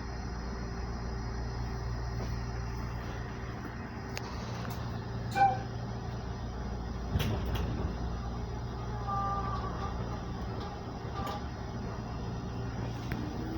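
Steady hum inside a Sangi Railway 5000 series electric train car standing at a station after its doors have closed. A sharp clank comes about five seconds in and a thump about two seconds later, and near the end a whine starts rising in pitch as the train begins to pull away.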